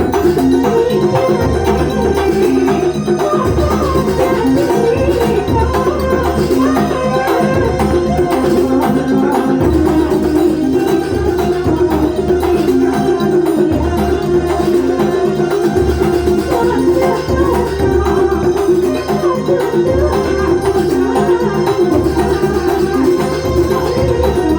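Live Banyuwangi kuntulan music: traditional percussion, with drums playing a dense steady rhythm under a wavering melodic line, and deep beats roughly every two seconds.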